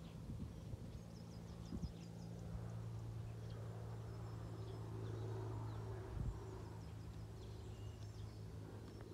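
Small birds chirping and whistling over a steady low hum, which swells a little in the middle, with a few soft thumps.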